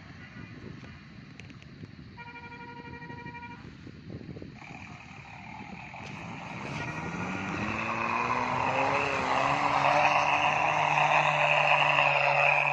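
An old Toyota Kijang's engine grows steadily louder as it approaches, its pitch rising as it accelerates and then holding steady. A short, steady horn-like tone sounds about two seconds in.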